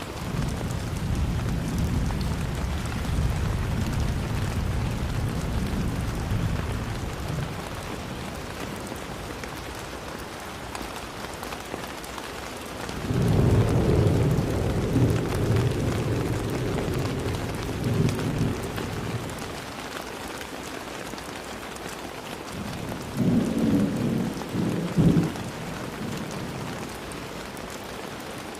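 Steady rain with rolls of thunder: a low rumble that dies away over the first several seconds, a louder roll starting about halfway through and lasting a few seconds, and a shorter one near the end.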